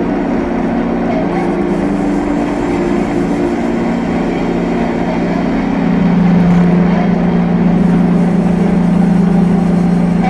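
Drone-noise music: a dense wall of sustained low tones over grainy noise, with a deep drone swelling louder about six seconds in.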